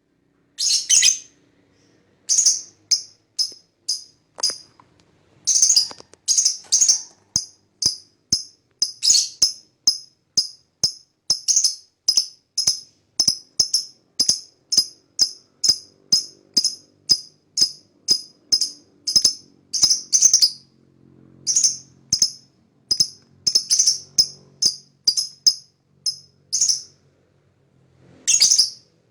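Lovebird calling in a long run of sharp, high-pitched chirps, about two or three a second, in runs broken by short pauses.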